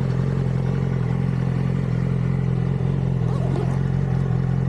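2006 Yamaha R6's inline-four engine idling steadily through the stock exhaust.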